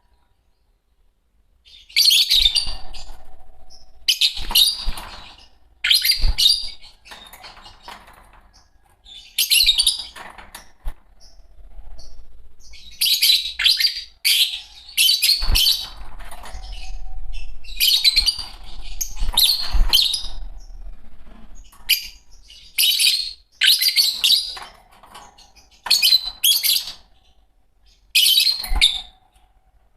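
A pair of Fischer's lovebirds chirping in short, high-pitched bursts every second or two, starting about two seconds in.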